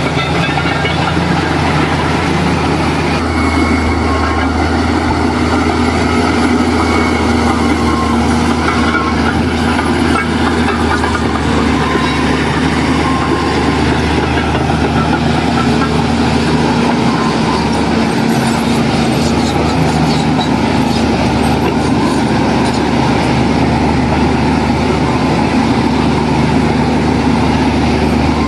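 Diesel engine of a heavy earthmoving machine running steadily.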